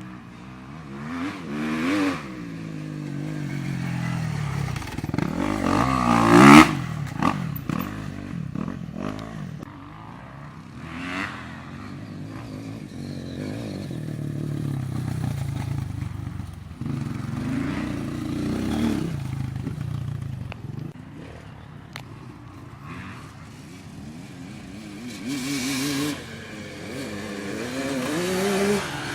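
Motocross motorcycle engines revving up and falling away again and again, at its loudest about six seconds in.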